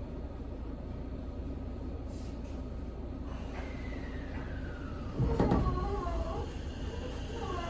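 Seibu 6000 series train with a steady low rumble. About three and a half seconds in, a whine from its Mitsubishi SiC-VVVF traction inverter falls in pitch, followed by a loud thump about five seconds in and further sweeping inverter tones near the end.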